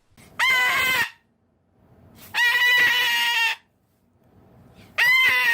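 Parrot screeching three times, each loud, high call lasting about a second with short silences between; the third runs into the end.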